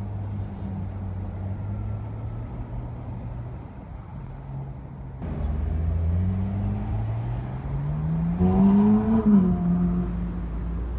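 Car engine running low and steady, then accelerating: its note rises steadily in pitch to its loudest just before the end, then eases back.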